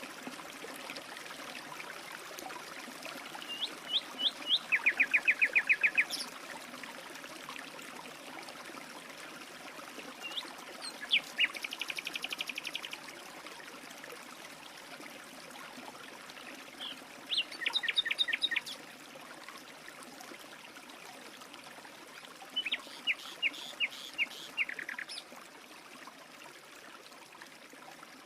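A songbird sings four separate phrases, each a few separate high notes running into a fast, even trill, over a steady background of running water from a stream.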